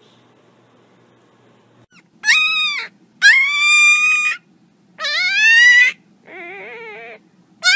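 Young puppy howling: four high-pitched howls, each under a second long, beginning about two seconds in, the last one quieter and wavering.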